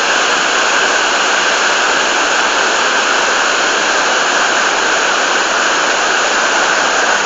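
Waterfall in full flood after heavy rain, a loud, steady roar of falling water heard close up with spray blowing.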